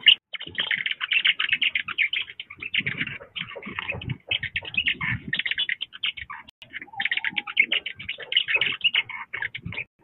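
Birds calling: a dense run of quick, clicking chip notes, broken by brief pauses.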